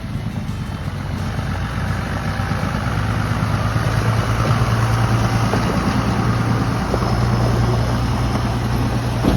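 Truck engine running and pulling a load, growing louder over the first few seconds and then holding a steady low hum.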